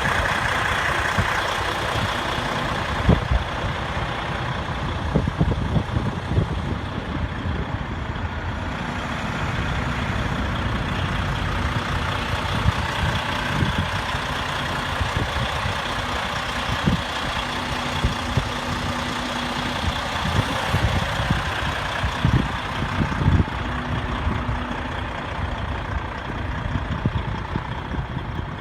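Steady vehicle engine and road noise, with a faint hum that comes and goes and irregular low thumps.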